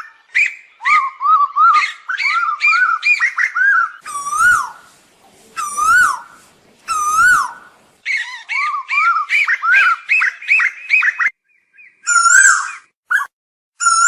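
Asian koel calling: rapid runs of short, repeated chattering notes, several a second. In the middle these give way to three longer, louder calls, each rising then falling, about a second and a half apart, before the quick runs start again.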